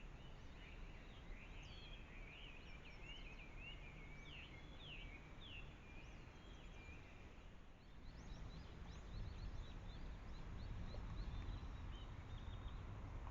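Birds twittering, a quick run of high chirps for about seven seconds, then scattered short high chirps. Underneath is a low rumble that grows louder about eight seconds in.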